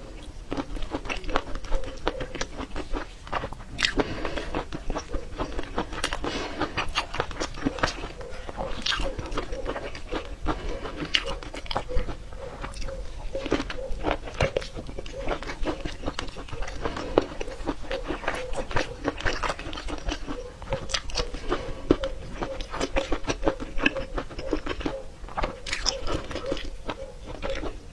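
Close-up crunching and chewing of peppers: a dense, irregular run of crisp bites and wet chewing.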